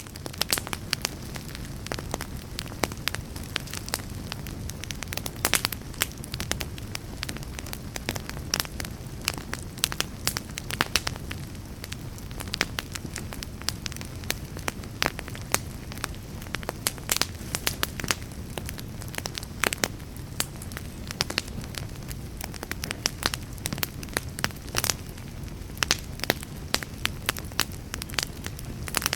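Wood fire burning in a fireplace, crackling with frequent, irregular sharp pops over a steady low rush of flame.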